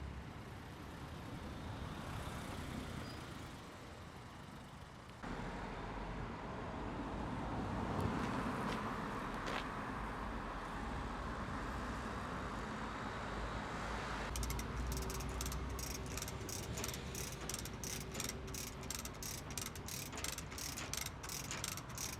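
Steady mechanical background noise, louder from about five seconds in. About two-thirds of the way through, a chain block starts clicking evenly, about three clicks a second, as its ratchet pawl works while the load is hoisted.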